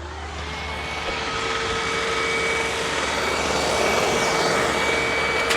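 Hoover WindTunnel upright vacuum's motor spinning up, its tone rising over the first second, then running steadily with a strong rush of air.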